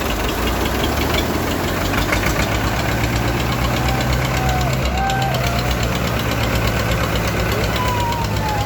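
Diesel tractor engines running hard and steady, with a rapid, dense knock of firing pulses, typical of tractors straining in a tractor tug-of-war pull.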